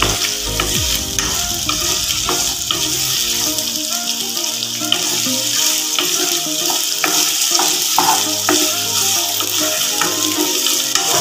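Cut okra frying in oil in a nonstick pan: a steady sizzle, with a wooden spatula stirring and scraping the pieces now and then.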